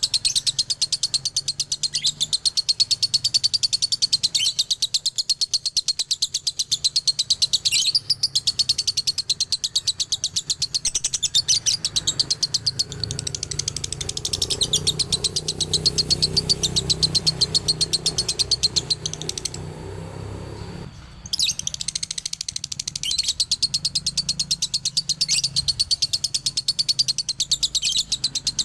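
Male lovebird in its long, fast chattering song ('ngekek' doubling): a rapid, unbroken run of high chirps. The chatter breaks off for about a second two-thirds of the way through, then starts again.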